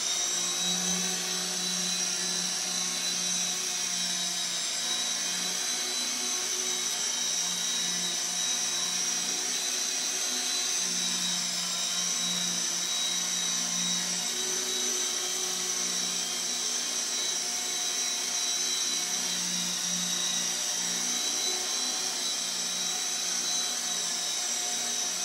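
CB180Q small electric RC helicopter in flight: a steady high motor whine with a lower rotor hum that swells and fades as it hovers and manoeuvres.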